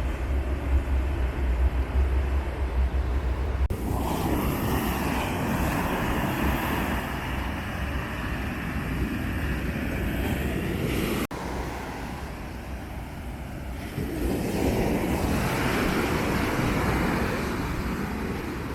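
Ocean surf from a typhoon swell breaking and rushing on the beach, with wind buffeting the microphone as a heavy low rumble for the first few seconds. The sound jumps abruptly twice, and the surf swells up again a little after the middle.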